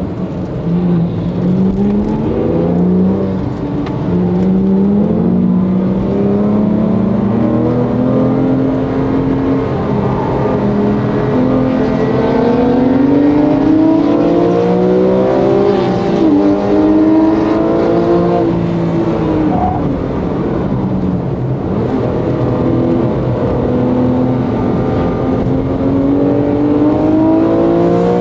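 Porsche GT3's flat-six engine heard from inside the cabin, pulling hard on track: its pitch climbs through each gear and drops back at each shift, easing off briefly past the middle before climbing again.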